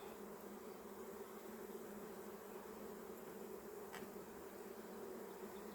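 Honeybees from an opened hive buzzing: a steady, faint hum, with a single faint click about four seconds in.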